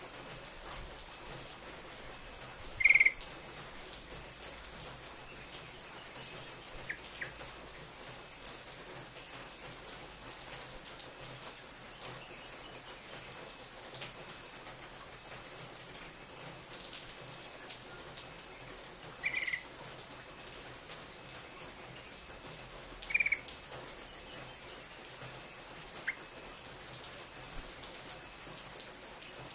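Yellow-vented bulbul (burung trucuk) giving short single calls every few seconds, about five or six in all. Behind them is a steady hiss with scattered faint ticks.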